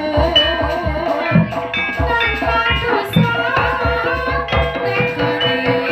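Live Javanese jaranan music: hand drums beating a quick, steady rhythm under sustained gamelan melody, with a singer's voice carrying a line early on.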